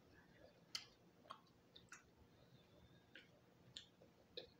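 Faint chewing of fried eel: soft, scattered mouth clicks and smacks, about six over a few seconds, against a quiet room.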